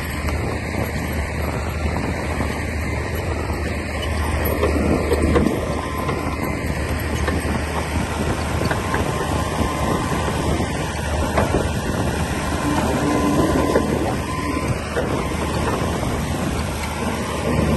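Komatsu D60P bulldozer's diesel engine running under load with scattered metallic clanks, as it pushes soil. There is a steady low hum, and it swells briefly about four seconds in.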